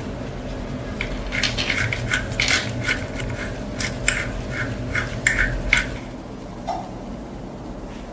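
Small metal parts clinking and tapping against each other: about a dozen light metallic knocks with short rings, irregularly spaced over about five seconds, over a steady low hum.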